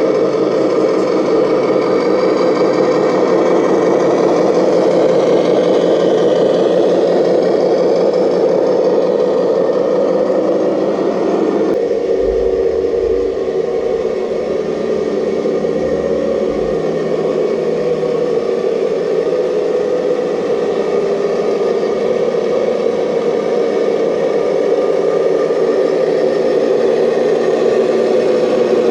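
Motor and drive of a radio-controlled model excavator running steadily, changing abruptly in pitch and tone about twelve seconds in.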